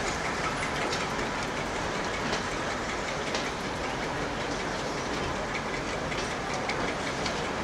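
Passenger train hauled by an EMD G22 diesel locomotive pulling out of a station: a steady rumble of the cars rolling past, with the clickety-clack of wheels over rail joints.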